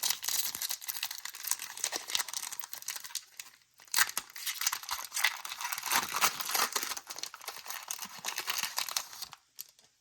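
Foil wrapper of a Pokémon card booster pack being crinkled and torn open, a dense crackling with a brief pause about four seconds in.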